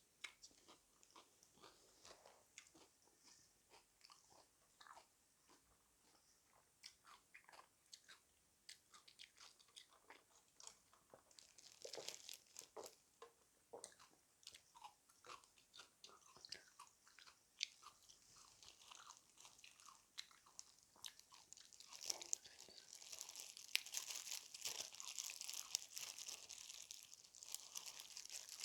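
Close-up eating sounds: bites crunching through crispy fried chicken coating and chewing, in irregular short crunches that grow denser and louder over the last several seconds.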